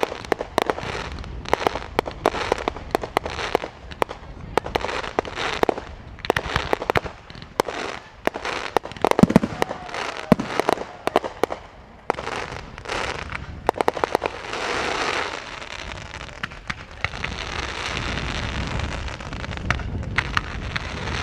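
Fireworks going off in a rapid, irregular series of bangs and cracks, giving way over the last several seconds to a denser, steadier crackling hiss.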